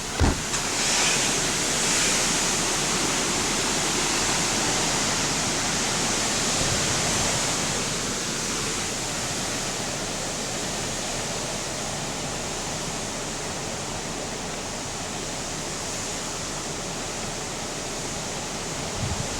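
Steady, loud rushing of hurricane wind and rain, with a short thump right at the start.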